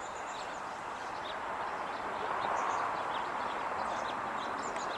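Passing road traffic, a broad noise that swells to a peak mid-way and eases off, with small birds chirping in short, high calls throughout.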